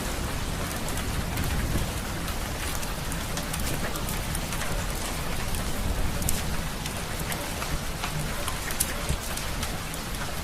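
Steady rain mixed with a fireplace's crackling: an even hiss of rain with scattered sharp pops from the burning wood.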